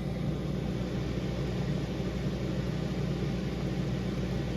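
Fan of a homemade esky (cooler box) air conditioner running steadily, a constant hum and rush of air blowing out through its pipes; not that loud.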